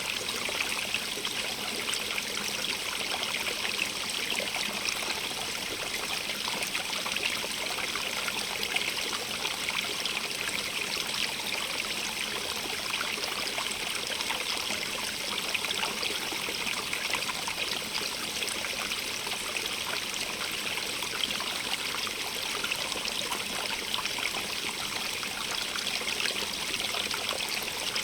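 Stream running and trickling over stones, a steady splashing rush with its weight in the upper range.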